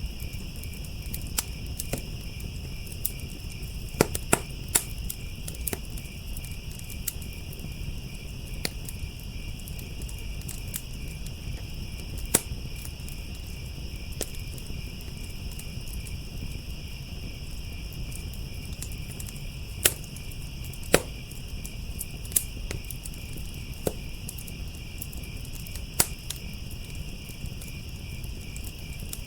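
Wood fire crackling with sharp, irregular pops, a handful of them louder, over a low rumble, against a steady chorus of crickets chirring.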